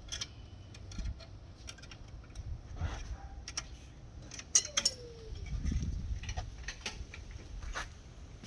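Irregular light clicks and taps, sharpest twice about halfway through, with a short low rumble just after.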